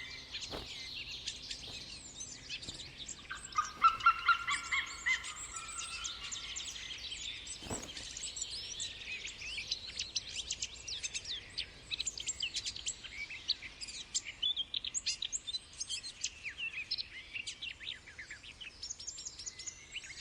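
Many birds chirping and singing together, with a louder run of quick repeated notes about four seconds in. A single sharp click comes near the middle.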